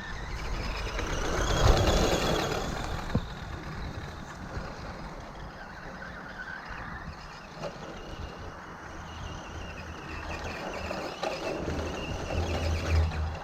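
Team Associated RC10T electric RC truck driving, its brushed stock motor on a Novak Rooster speed control whining up and down in pitch as the truck speeds up and slows. The sound is loudest about two seconds in and builds again near the end.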